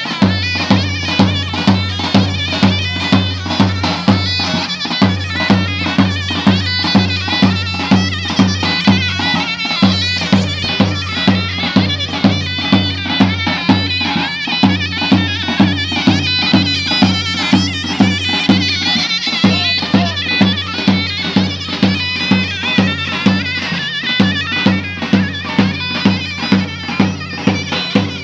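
Traditional folk dance music: a shrill wind-instrument melody over a steady low drum beat, about two beats a second.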